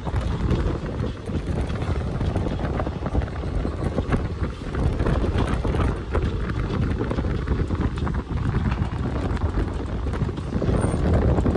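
Passenger train running at speed, heard from an open coach doorway: a steady low rumble of wheels on the rails with many short knocks, and wind buffeting the microphone. It grows a little louder near the end.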